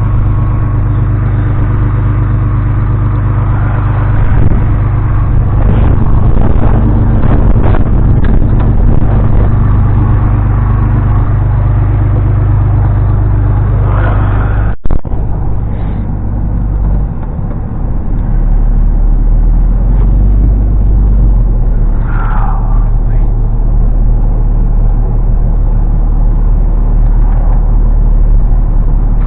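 A motor engine running steadily at a constant speed, with a brief break about fifteen seconds in.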